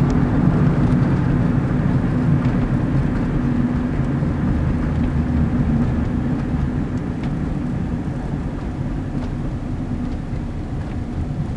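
Steady low rumble of a moving vehicle, with a faint steady hum underneath.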